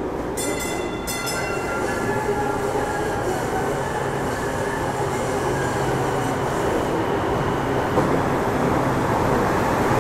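A passenger train running on steel rails with a steady rumble. High-pitched wheel squeal sits over the rumble and fades out about seven seconds in, and a few sharp clicks come in the first second.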